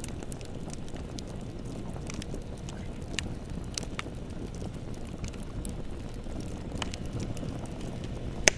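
Bonfire burning: a steady low rumble of flames with scattered sharp crackles and pops of burning wood. The loudest pop comes near the end.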